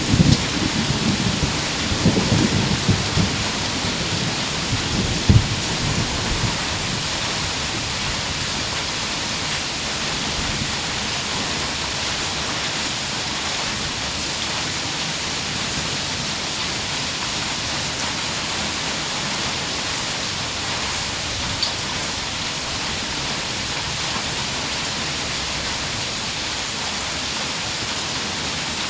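Heavy rain pouring steadily. A low thunder rumble dies away over the first several seconds, with a brief jolt about five seconds in.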